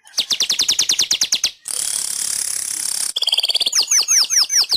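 Weaver bird (manyar) singing: fast runs of sharp, descending notes, broken about two seconds in by a long buzzy wheeze, then a buzzing trill and slower swooping notes before the fast notes return.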